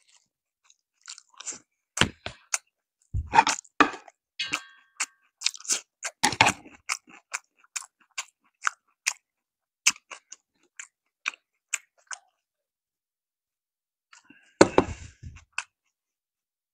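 Close-miked chewing of a mouthful of fried chicken and rice: irregular crunches and wet mouth clicks, a short lull, then a louder cluster of crunching near the end.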